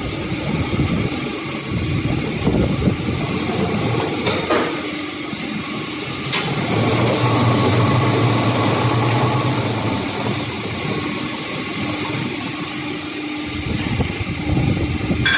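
Industrial metal scrap shredder running, shredding lathe turnings with a steady motor hum and uneven grinding. A heavier low drone sets in about six seconds in and lasts a few seconds, with a couple of sharp knocks just before it.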